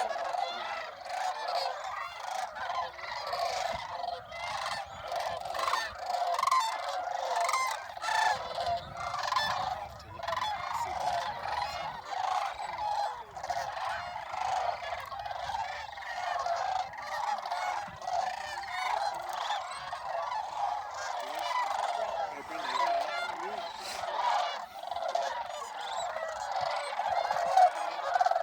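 Dense, continuous chorus of a large flock of snow geese and sandhill cranes calling together: many overlapping honks and calls with no gaps.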